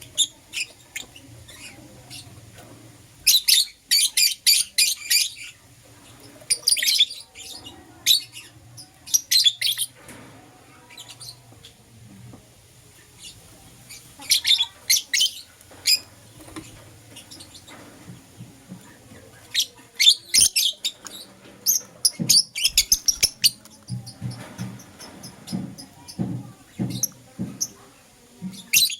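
Lovebirds chirping in quick, high-pitched bursts of rapid chirps, with pauses between the bursts. In the last few seconds, a run of short low taps joins the chirps.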